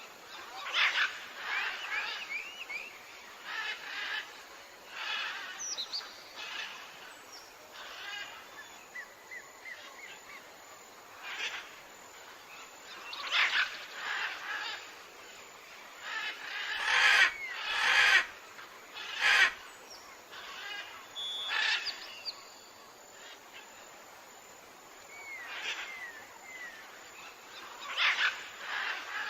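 Several wild birds calling over a faint steady hiss, with short chirps, quick trills and little gliding whistled notes coming every second or two. About two-thirds of the way through, three sharp knocks sound a second or so apart, louder than the calls.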